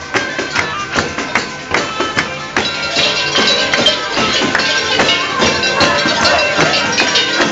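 Traditional Cilento folk music played live: a tambourine beating a steady rhythm of about three strokes a second under held melody notes. The playing gets fuller about two and a half seconds in.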